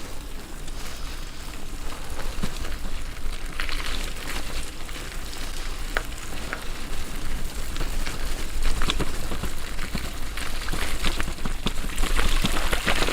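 Bicycle tyres rolling over a rough off-road track: a steady crackling hiss with scattered ticks and rattles, and wind rumbling on the microphone underneath.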